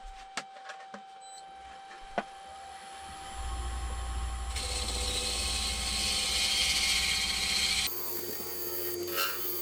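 Wood lathe running with a steady whine while a gouge, turned sideways and used like a scraper, cuts across spinning poplar. A loud hissing scrape builds from about three and a half seconds in and changes near the end, smoothing the shade's surface.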